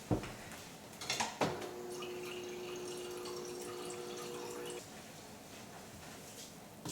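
Water run into a drinking cup for about three seconds, with a steady hum while it flows that stops abruptly, after a couple of knocks as the cup is set in place.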